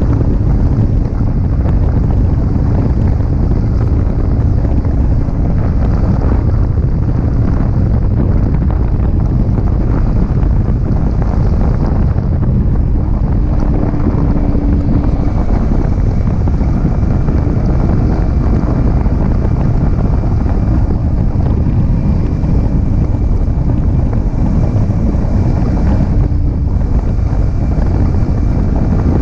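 Wind buffeting the action camera's microphone on a moving Yamaha R15M motorcycle, with the bike's 155 cc single-cylinder engine running steadily underneath.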